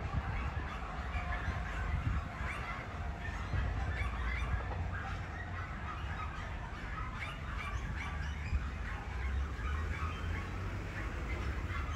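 Birds calling in many short, scattered calls, over a steady low rumble.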